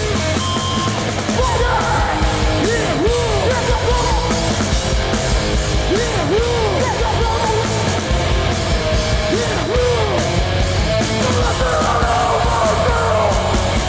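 Hardcore punk band playing live at full volume: heavily distorted electric guitars and pounding drums, with shouting over the top.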